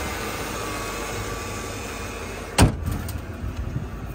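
Mercedes-Benz engine idling steadily, then one loud thump about two and a half seconds in, typical of the hood being shut, followed by a few light knocks.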